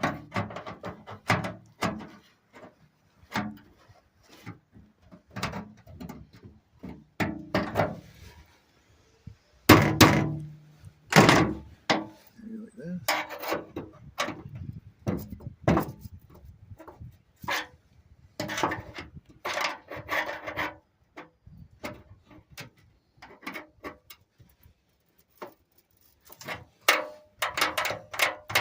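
Irregular taps, clicks and knocks of hands and a screwdriver working a small chrome latch cover onto a bus's rear engine lid.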